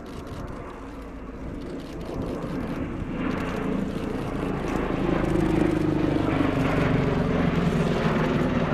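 Bell-Boeing CV-22B Osprey tiltrotor, with its two Rolls-Royce AE 1107C turboshafts and big rotors, flying past: a rumble that grows steadily louder over the first five seconds or so. A low tone then slides down in pitch as the aircraft goes by.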